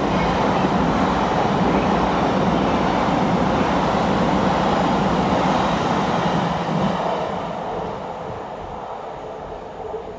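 Taiwan Railway train moving along a station platform: a loud, steady rush of wheel and running noise that fades away over the last few seconds as the train moves off.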